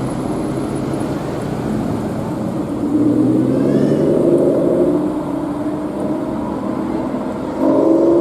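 Supercar engine running in street traffic. It gets louder with a slightly rising note about three seconds in, and again near the end.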